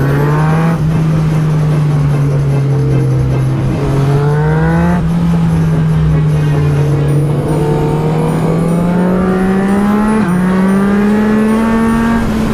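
Yamaha MT-09 SP's three-cylinder engine through an Akrapovic exhaust, heard on board under hard riding. The revs climb and break off with each gear change, about a second in, around five seconds in and again around ten seconds in.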